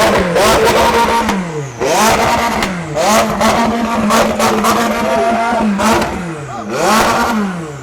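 Supercar engine being revved hard over and over: the pitch climbs sharply, falls back, and in the middle is held high for about two seconds before dropping.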